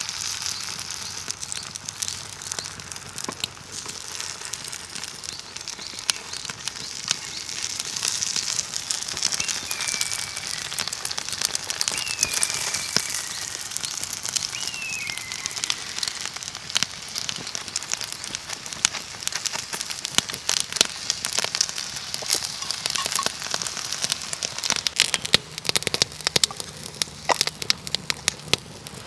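Wood fire crackling and popping in a fire pit: a steady hiss full of sharp snaps, which come thicker near the end.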